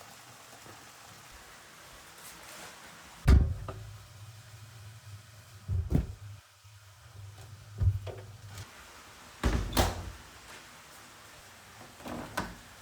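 A series of dull knocks or bumps, about five of them a couple of seconds apart, the first the loudest, over a faint low hum.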